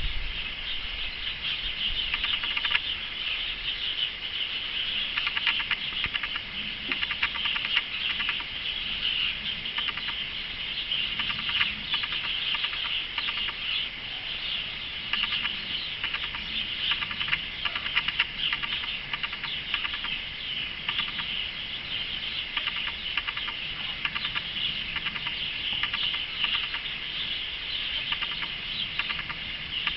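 Male canary singing: a long run of rapid, high-pitched trills and chirps.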